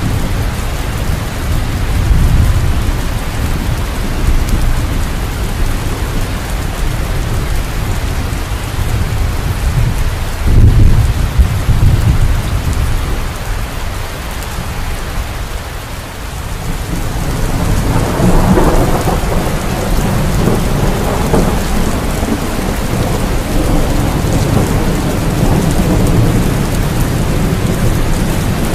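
Steady heavy rain with thunder rumbling: a loud peal about ten seconds in, then a long roll of thunder that swells up from about two-thirds of the way through.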